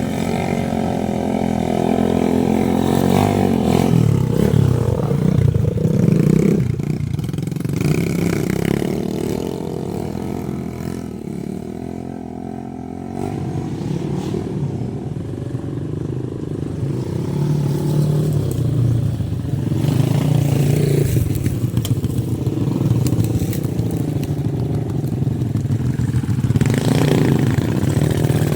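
Motorcycle engine running, its pitch and loudness rising and falling with the throttle, easing off about halfway through and picking up again.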